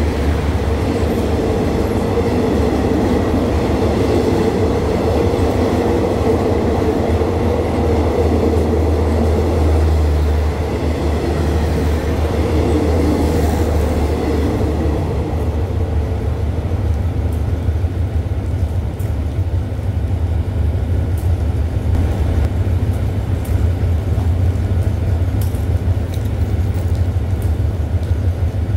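Passenger coaches of a passing train rolling by with a loud rumble of wheels on the rails over a steady low diesel drone. About halfway through the coaches clear and the rumble dies away, leaving the diesel locomotive's engine running on its own.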